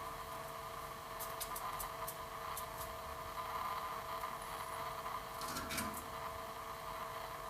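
Canaries pecking and cracking seed: small, sharp clicks in two clusters, about a second in and again near six seconds, over a steady background hum.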